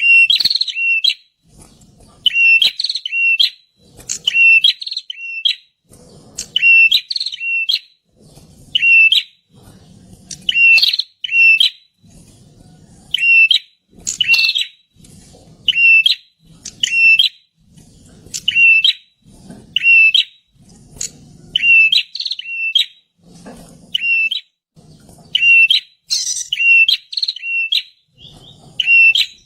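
Prinia (perenjak) singing: loud, sharp chirping phrases repeated about once a second.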